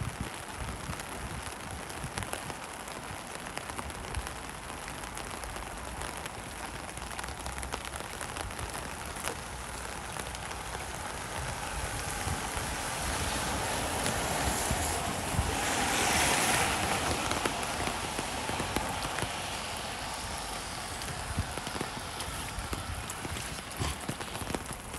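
Steady rain falling, an even hiss. About two-thirds of the way through, a louder hiss swells up over a few seconds and fades away.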